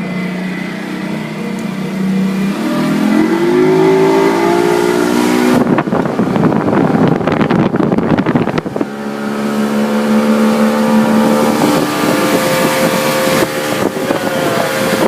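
150-horsepower Mercury outboard motor pushing the boat under way, its pitch rising as the throttle opens about two and a half seconds in. A loud rushing noise covers the engine for about three seconds in the middle, after which the engine runs steady again.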